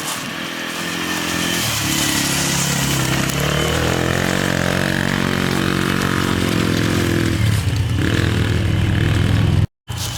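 1990 Polaris quad's engine running under throttle. Its pitch climbs and grows louder about a second and a half in, holds steady for several seconds, then drops back a little near the end. The sound breaks off for a moment just before the end.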